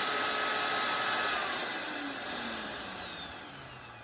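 Belt sander's brushed electric motor running free with its belt off, a steady high whine, then switched off about a second and a half in and coasting down, its pitch falling as it slows. It is a test run after the armature and brush contact points were cleaned with steel wool.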